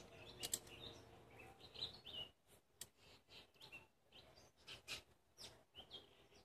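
Near silence with faint bird chirps in the background and a few small clicks.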